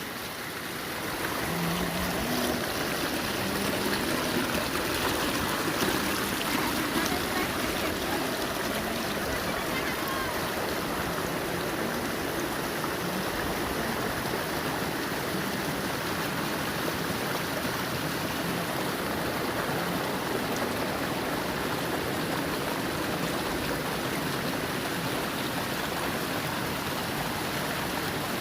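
Water of a hillside stream or small waterfall rushing steadily, a continuous hiss that builds over the first second or two and then holds even.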